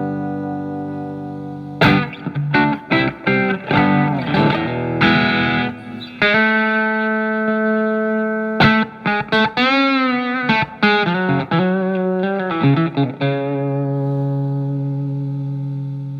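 Telecaster with single-coil alnico pickups played through a Marshall MG15FX practice amp's crunch channel, lightly distorted. A ringing chord gives way to a quick run of picked notes, then a long held note and a phrase with wavering, bent pitch, and it ends on a chord left to ring out and fade.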